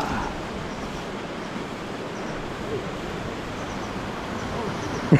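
Steady rushing roar of a waterfall pouring into a pool.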